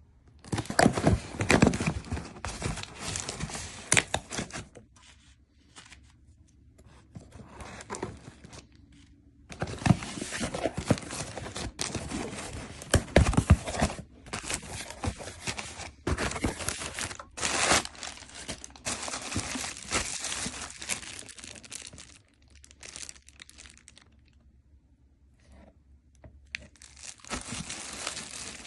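Crinkling and rustling of packaging being handled, in irregular bursts with quieter gaps around five to nine seconds in and again in the early twenties.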